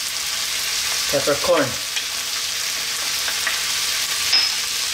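Clams with onion and garlic frying in oil in a wok, sizzling steadily, with a few clicks of a wooden spatula stirring near the end.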